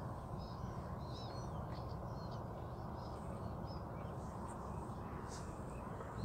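Birds giving short, scattered chirps and calls over a steady low background rush.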